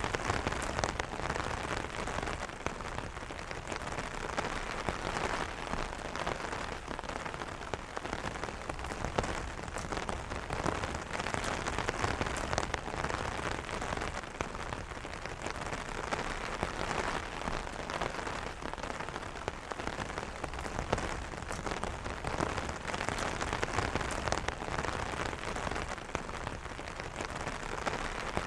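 Steady rain pattering on an umbrella canopy: a dense, continuous hiss of drops with many fine individual drop taps.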